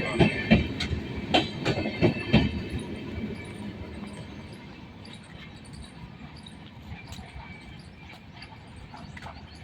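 Express passenger train's wheels clattering over rail joints, with loud clacks for the first two and a half seconds, then the rumble fades steadily as the train moves away.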